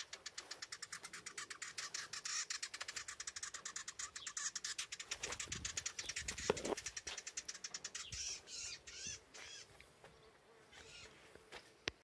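Small bird's rapid scolding alarm call at an intruder near its nest: a fast, even run of sharp ticks, about eight a second, that gives way after about eight seconds to a few short wavering calls.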